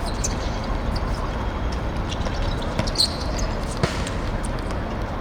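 A football being kicked and bouncing on a hard pitch: a few short, sharp thuds, the clearest about three seconds in and just before four seconds, over a steady low rumble.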